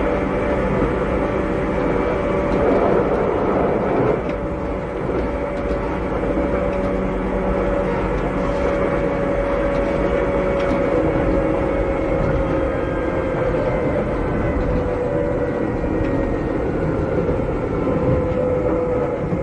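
Keikyu old 600 series (second-generation) electric railcar running at speed, heard from inside the car. The Toyo Denki traction equipment whines over the steady rumble of the wheels. The main whine drifts slowly lower in pitch through the second half.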